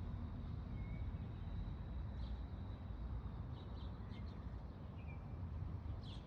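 A few short, high bird chirps scattered over a steady low rumble.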